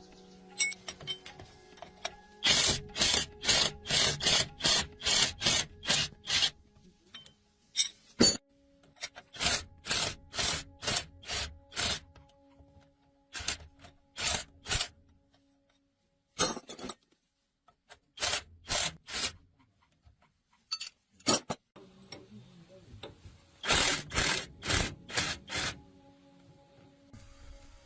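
Rhythmic strokes of a hand tool working metal, like filing or sawing, in runs of several strokes about three a second with pauses between. Faint background music underneath.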